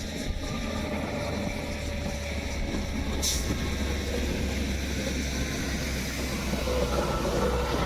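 Vehicle driving along a road: a steady low engine drone with road and wind noise, and one short high click about three seconds in.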